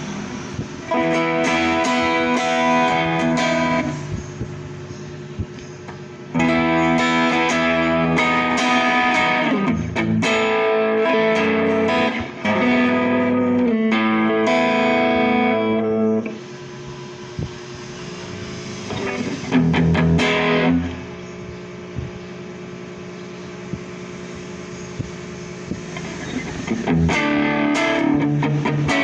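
Electric guitar played through a Mosky DTC multi-effects pedal: stretches of loud chords alternate with quieter passages where notes are left ringing and fade.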